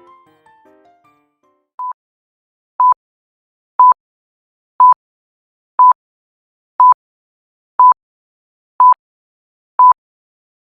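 Quiz countdown timer: a short electronic beep once a second, all at one pitch, nine times, the first one quieter. It ticks off the seconds left to answer. A soft tinkling tune fades out in the first second.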